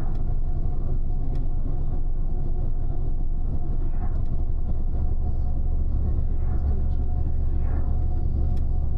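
Double-decker express bus running on the road, heard from inside the upper deck: a steady low engine and road rumble. About halfway through, the low note drops and gets louder.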